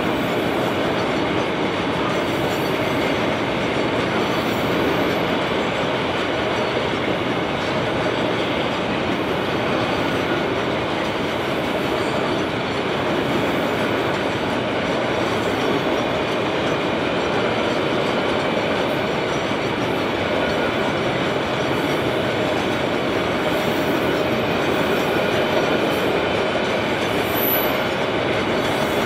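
Loaded iron ore hopper wagons rolling past on the track: steel wheels on rail making a steady, continuous rolling noise.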